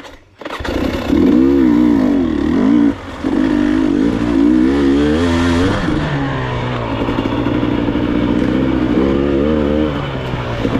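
Enduro motorcycle engine revving up and down unevenly, coming in loud after a brief quiet moment at the start. It dips briefly about three seconds in, then runs at a steadier pitch with more revving near the end.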